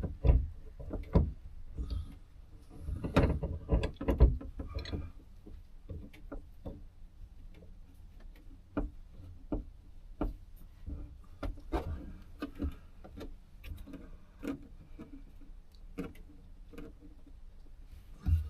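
Irregular clicks, taps and knocks of hand-tool work on the trim inside a pickup truck's cab, busiest in the first few seconds and sparser after.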